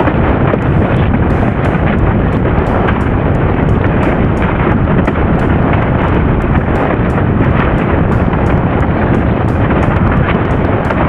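Strong wind buffeting a camera microphone while windsurfing at speed in high wind, a steady heavy rush with short crackling hits about three times a second.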